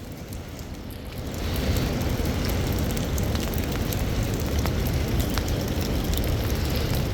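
Wind gusting against a phone's microphone in a snowstorm: a low, steady rumbling buffet that rises about a second and a half in and holds, with a few faint scattered ticks.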